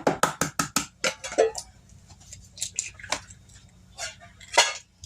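Eggs being tapped and cracked against the rim of a mixing bowl: a quick run of sharp taps in the first second, then scattered clicks, with one louder crack near the end.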